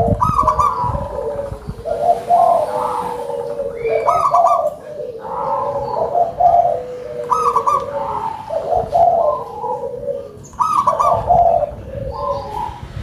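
Local zebra doves (perkutut) cooing repeatedly, with loud, full-voiced phrases that overlap one another.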